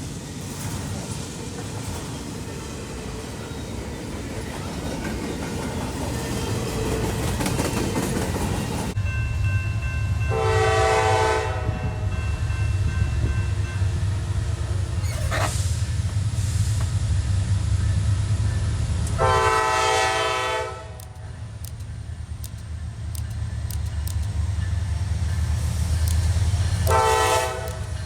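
A passing diesel freight train: rumbling noise at first, then a steady low locomotive engine rumble under which the locomotive's air horn sounds three loud blasts, each a second or so long, with a faint short toot between the first two.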